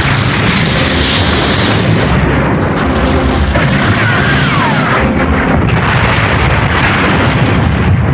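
Animated space-battle sound effects: continuous explosions and cannon blasts with a deep rumble, over dramatic background music, with a short falling whistle about four seconds in.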